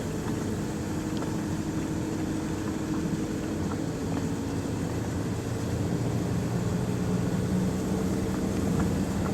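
A steady engine drone that shifts pitch slightly partway through and grows a little louder near the end.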